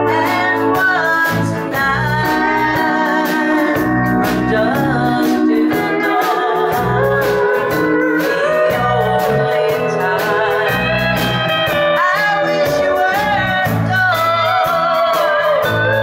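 Live country band music: a gliding melody line over a pulsing bass and a steady drum and cymbal beat.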